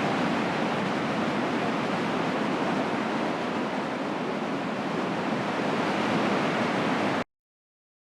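Small waterfall cascading, a steady rush of water that cuts off suddenly near the end.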